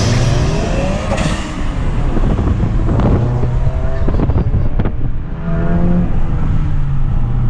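Volkswagen Golf GTI's 2.0-litre turbocharged four-cylinder engine under way, the revs climbing several times as the car accelerates through the gears, over steady road rumble.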